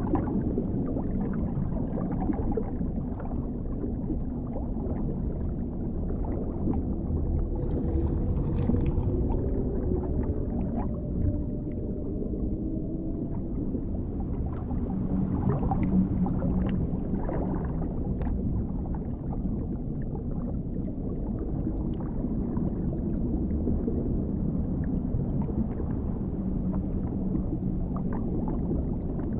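Dark underwater ambience: a deep, muffled, steady rumble with faint scattered bubbling ticks, and a drawn-out low moaning tone that slowly wavers in pitch about a third of the way through.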